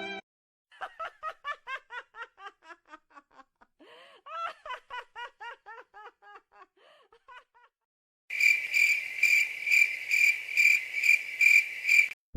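A giggling laugh in two bouts of quick, short syllables that trail away. It is followed by a high, shrill cricket chirping pulsing about twice a second, the familiar awkward-silence cricket sound effect.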